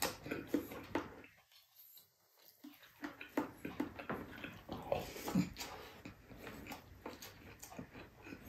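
Mouth sounds of eating saucy spare ribs and rice by hand: many short wet smacks and chewing clicks, with a break of near silence about a second and a half in.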